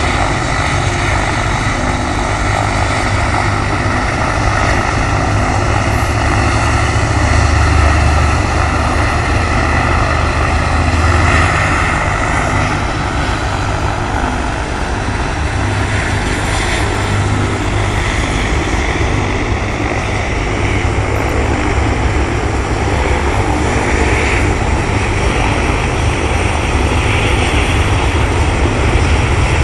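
Life Flight medical helicopter running steadily and loud, its rotor and turbine noise continuous with no break.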